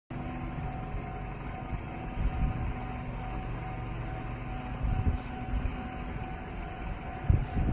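Russell snowplow train (Ki 105 plow car with ED22 electric locomotive) running, a steady low rumble with a faint held whine. Heavier low thumps come about two, five and seven seconds in.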